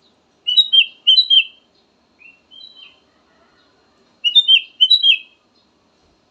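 Kutilang emas bulbul singing: two loud phrases of about four quick, clear whistled notes each, about a second in and again near the end, with a few softer notes between them.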